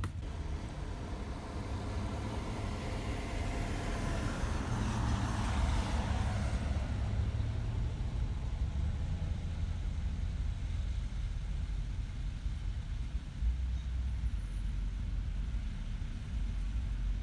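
A motor vehicle passing by: a swell of road noise that rises to a peak about five seconds in and fades by about seven seconds, over a steady low rumble.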